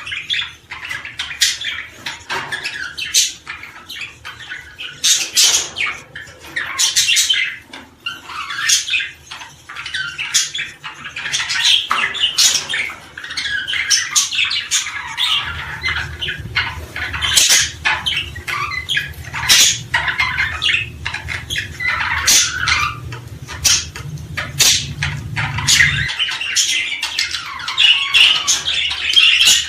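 Many small birds chirping and squawking, a dense, unbroken stream of short sharp calls. A low steady hum runs beneath them through the second half and stops suddenly a few seconds before the end.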